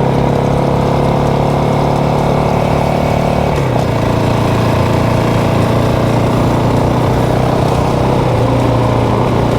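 Motorcycle engine running at a steady, low pace, with a brief dip in pitch about three and a half seconds in as the throttle eases, then holding steady again.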